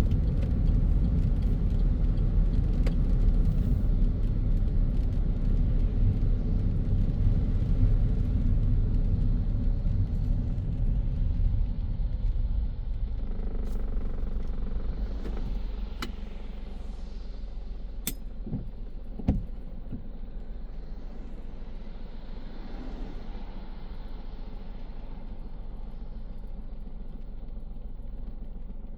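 A car driving, with a steady low rumble of road and engine that fades to a quieter hum about halfway through. A few sharp clicks stand out in the middle.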